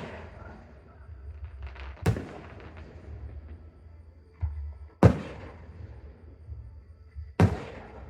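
Aerial firework shells bursting: three sharp booms two to three seconds apart, each trailing off in an echo, with a softer thud just before the second.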